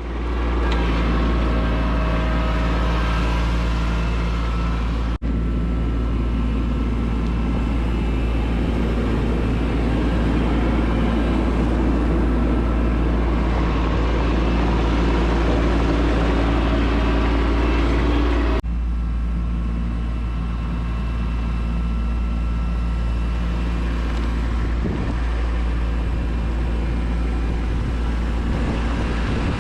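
Kubota B2601 compact tractor's three-cylinder diesel engine running steadily while working, its note breaking off abruptly about five seconds in and again shifting abruptly past the halfway point.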